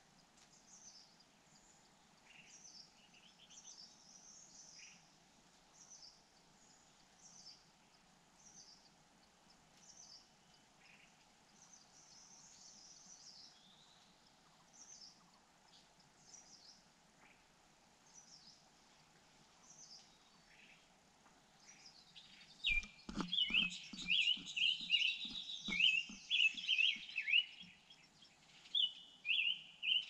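White-throated fantail nestlings begging with rapid high chirps as a parent comes to the nest to feed them, mixed with a few soft knocks against the nest, from about two-thirds of the way in. Before that, only faint, short, high bird calls.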